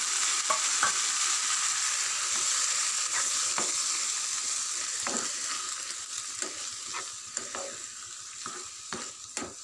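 Mashed vegetable bhaji sizzling in butter in a metal saucepan while being stirred, with the utensil scraping and knocking against the pan now and then. The sizzle slowly grows quieter toward the end.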